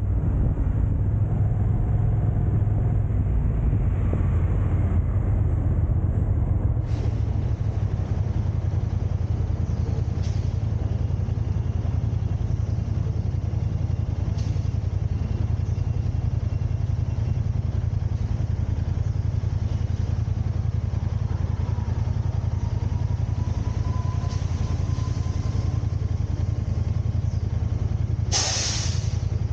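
Steady low rumble of a car driving in city traffic: engine and tyre noise. A short, sharp hiss stands out near the end.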